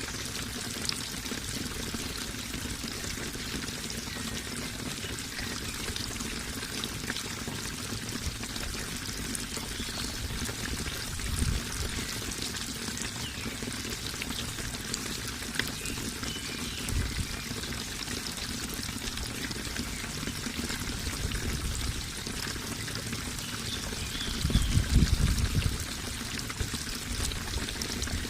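Flowing water splashing and trickling steadily, with a few louder low swells, the strongest near the end.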